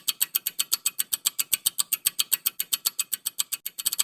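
Countdown-timer ticking sound effect: rapid, evenly spaced sharp ticks, about eight a second, with a brief denser flurry near the end.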